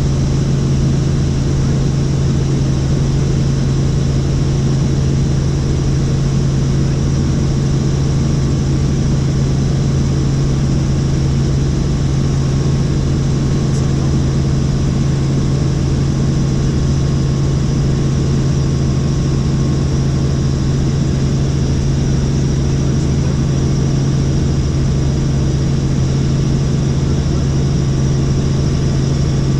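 Helicopter in flight: a steady rotor and turbine drone with a strong low hum, unchanging in level throughout.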